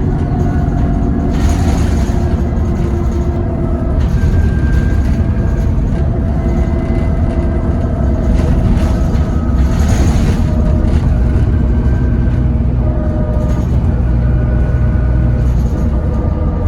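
Diesel engine of a moving bus heard from inside the saloon, running under way with its engine note stepping up and down as it pulls along, over a steady rumble of road noise. Two brief louder rushes of noise come about two seconds in and again around eight to ten seconds in.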